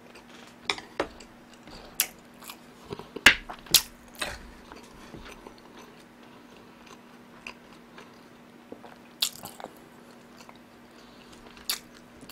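Close-miked eating: chewing and biting with scattered short crunches and clicks, the loudest about three seconds in and a few more near the end.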